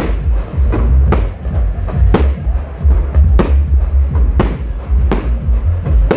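Fireworks shells bursting in sharp bangs, about seven of them roughly a second apart, over loud music with a heavy bass.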